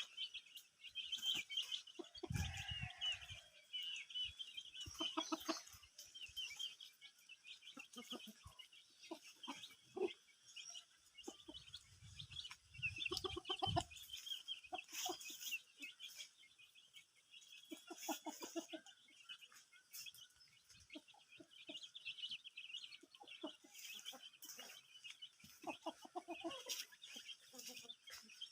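Aseel chickens clucking on and off, over a constant high chirping of small birds or chicks. Two short low rumbles come about two seconds in and again past the middle.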